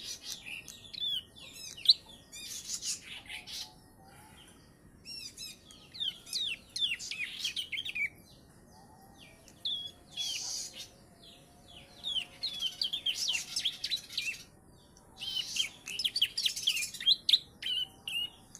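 Juvenile prenjak (prinia) singing in repeated bursts of rapid, high chirping trills with short pauses between them, its song carrying learned ciblek (bar-winged prinia) phrases.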